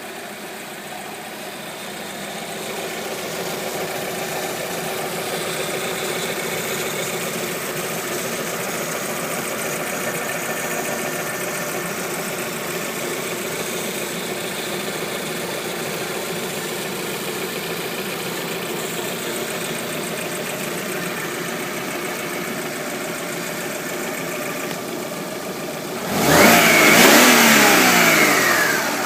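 Alfa Romeo 156 Selespeed's engine idling steadily, then revved once near the end, its pitch sliding back down as the revs drop.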